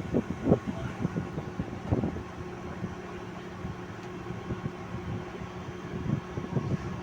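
Crane truck's engine running steadily with a constant hum. Irregular knocks and clatter sound over it in the first two seconds and again near the end.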